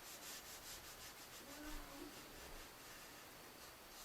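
Faint rhythmic rubbing strokes on drawing paper as graphite shading is blended and rounded, several strokes a second that fade after about the first second.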